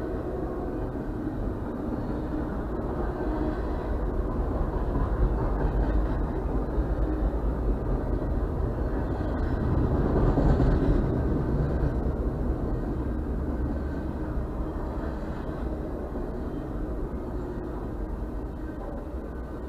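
Double-stack intermodal freight train cars rolling past: a steady low rumble of wheels on rail, muffled as heard from inside a parked car. It swells about halfway through, then slowly eases off.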